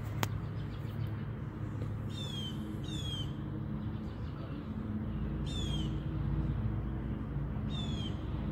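A bird calling four times with short, high, falling chirps, over a steady low hum. A single sharp click comes just after the start.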